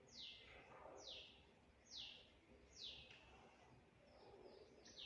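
A bird calling faintly: sharp downward-sliding high notes about once a second, then a quicker run of shorter notes near the end.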